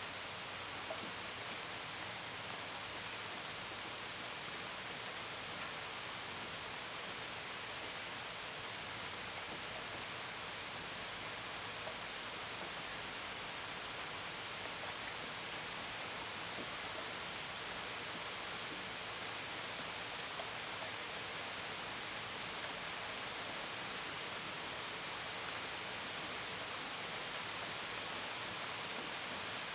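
Steady gentle rain, with scattered drops pattering close by. Faint cricket chirps repeat at an even pace above it.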